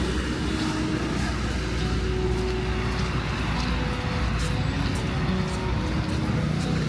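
Road traffic: vehicle engines running and passing, a steady low rumble.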